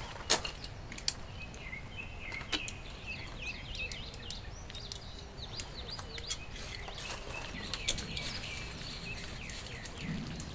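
Small birds chirping in quick runs of short, high calls, with a few scattered sharp ticks over a steady low background hiss.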